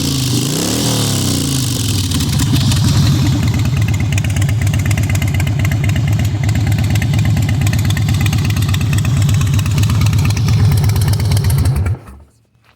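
Harley-Davidson Softail's V-twin engine through a full Big Radius exhaust with the baffles in: one rev that rises and falls at the start, then steady idling for about ten seconds before it is switched off and stops abruptly near the end.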